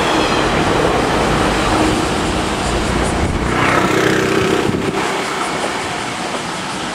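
JR West 115 series electric train running past and moving away, the rumble of its wheels on the rails fading slowly.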